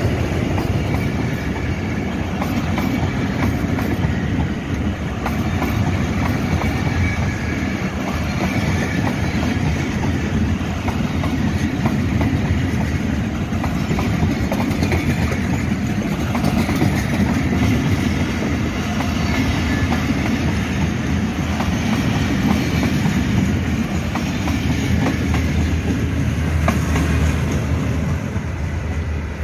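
Passenger coaches of a long express train rolling past close by, their wheels clattering over the rail joints in a steady clickety-clack.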